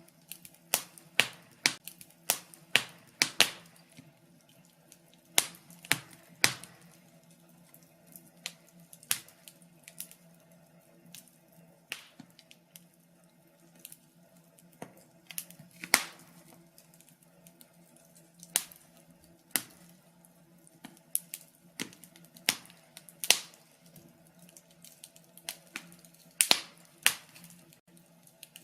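Wood fire in a fireplace crackling, with irregular sharp pops and snaps, some louder than others, over a faint steady low hum.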